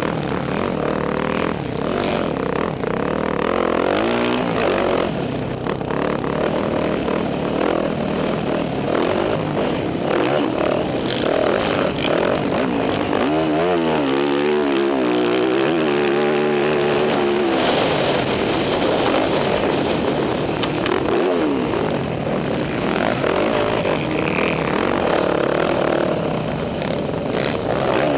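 Dirt bike engine ridden hard, revving up and dropping back over and over as the rider works the throttle and gears, with a run of quick rises and falls in pitch about halfway through.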